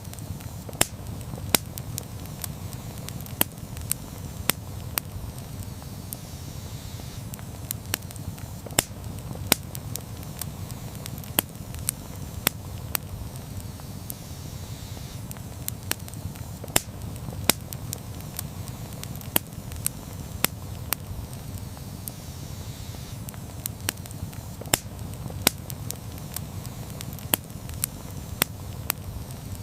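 Campfire burning: a steady low rumble of flames with sharp, irregular crackles and pops, roughly one or two a second.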